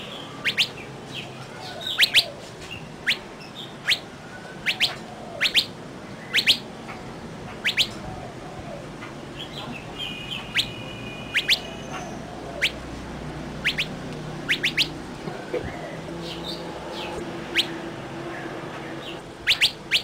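Birds chirping: short, sharp, high chirps about once a second, some in quick pairs, with a brief steady whistled note about halfway through, over a faint steady background.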